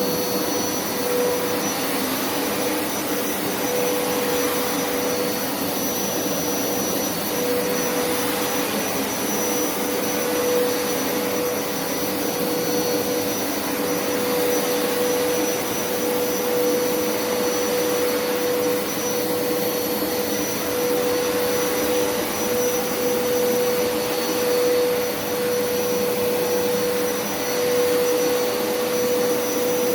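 Hoover upright carpet cleaner running steadily on a dry suction pass, with no water being sprayed. Its motor holds a constant whine over an even rush of airflow.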